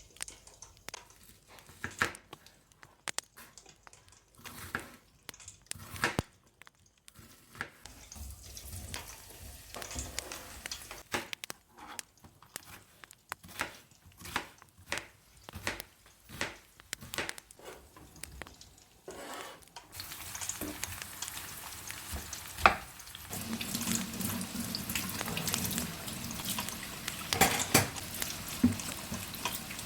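Home cooking at the stove: a utensil clicks and scrapes against a pan as food is stirred, then food frying in the pan gives a steady sizzle about two-thirds of the way in, with a few sharp clinks of utensil on pan.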